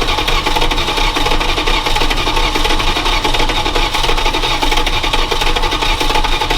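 Starter cranking the truck's carbureted engine steadily without it firing. It should have burped by now, and the helpers suspect it may be sucking too much air through unplugged vacuum lines or have the firing order wrong.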